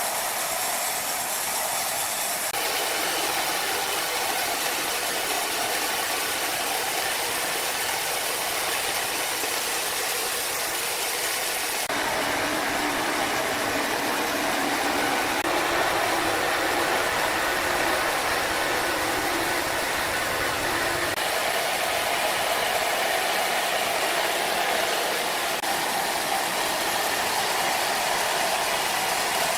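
Sawmill machinery running steadily with a dense, rattling mechanical noise, changing abruptly in character a few times.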